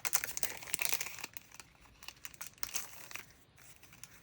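Sticker packaging crinkling and rustling as sticker pieces are handled and pulled out. It is busiest in the first second or so, then fainter and more scattered.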